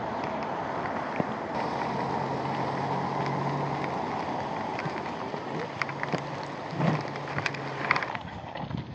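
A motorcycle engine running low under steady wind and road noise on a helmet-mounted microphone, with a few knocks and clicks near the end.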